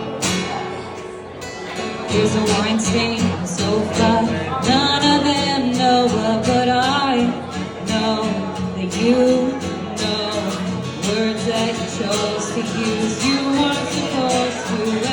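Live song: an acoustic guitar strummed steadily, with a voice singing over it from about two seconds in.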